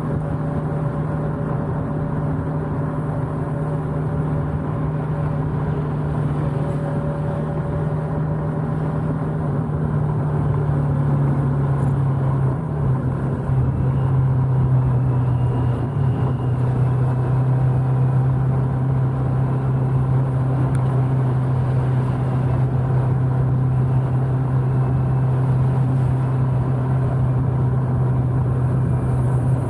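Motorcycle engine running at a steady cruise with road and wind noise, recorded on an Insta360 One R camera with its wind noise reduction on. The engine note drops slightly in pitch and gets louder about halfway through, then holds steady.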